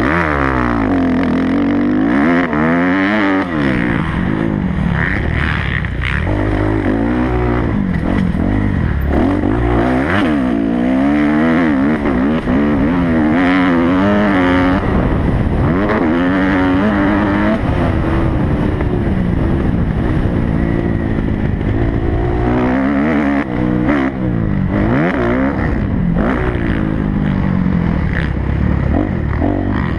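Kawasaki motocross bike's engine revving hard on a dirt track, its pitch climbing and dropping again every second or two as the rider rolls the throttle on and off and shifts gears.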